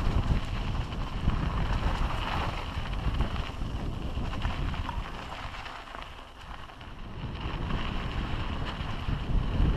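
Wind buffeting the microphone during a fast mountain-bike descent, with the bike rattling over the rough trail. The rush eases briefly about six seconds in, then builds again.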